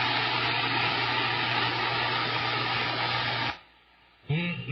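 CB radio receiving a station's keyed-up transmission: a steady hiss of static with a low hum underneath, which cuts off abruptly about three and a half seconds in as the transmission drops and the squelch closes.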